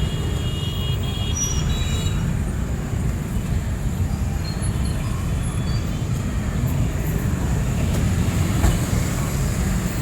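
City street traffic: a steady low rumble of engines from vehicles moving along the road.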